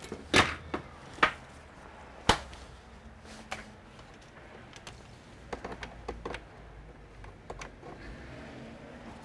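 Sharp clicks and knocks. Three loud ones come in the first two and a half seconds, then a quicker run of lighter clicks a little past the middle and a couple more near the end.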